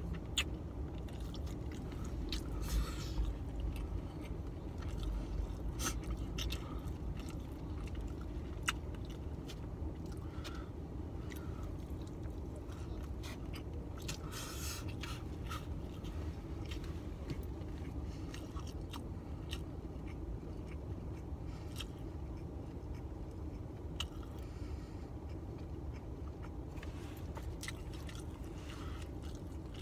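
Close-up chewing of a mouthful of rice and meat, with a fork scraping and clicking against a foam takeout container, over a steady low hum.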